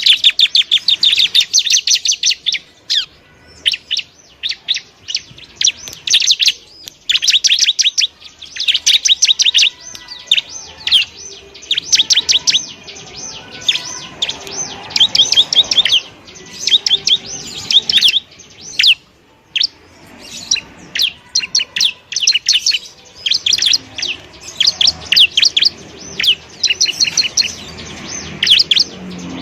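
Bar-winged prinia (ciblek) singing: bursts of rapid, high chirps lasting a second or two, repeated again and again with short breaks.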